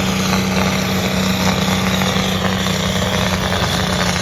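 Competition pulling tractor's engine running loud at a steady, high engine speed, one held note with a dense rasp over it.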